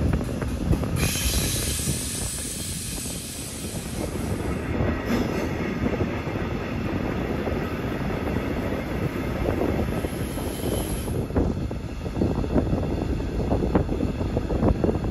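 Passenger coach of a night train rolling at speed, heard through an open window: a steady rumble of steel wheels on the rails, with a high hiss from about a second in to about four seconds. Sharper clicks over rail joints come near the end.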